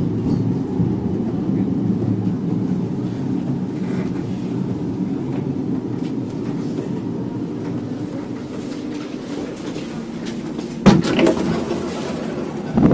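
A tram running on its rails, a steady low rumble. A sudden loud knock comes about eleven seconds in.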